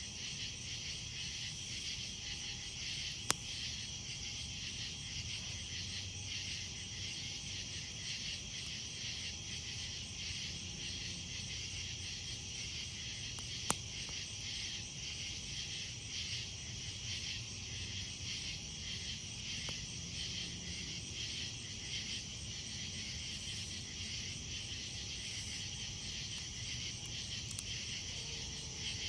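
Night insects, crickets among them, chirping steadily in a dense, finely pulsing chorus, over the campfire's low sound, with two sharp pops from the burning wood, one a few seconds in and one about halfway.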